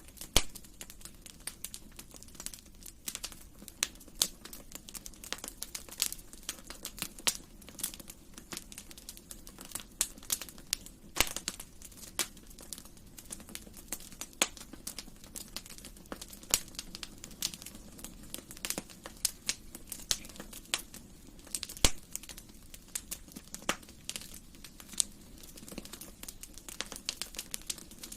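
Wood fire in a fireplace crackling, with irregular sharp pops and snaps over a low steady hiss of the flames.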